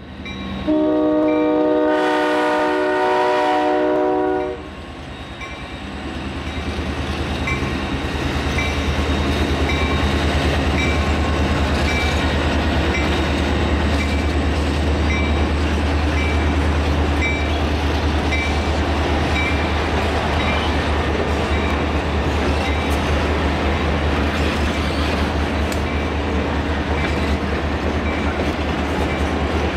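A diesel freight locomotive's horn sounds a chord in one long blast of about four seconds, starting under a second in. Then the locomotive's engine rumbles past and the freight cars roll by with steady wheel noise and rail clicks, while a grade-crossing bell rings over and over.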